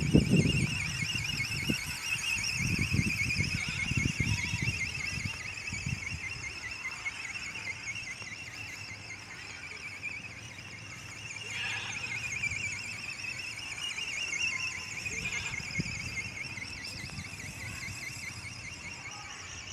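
High-pitched whine of an RC ornithopter's small electric motor and gearbox, its pitch wavering rapidly and evenly as the wings flap. Some low rumbles are heard in the first few seconds.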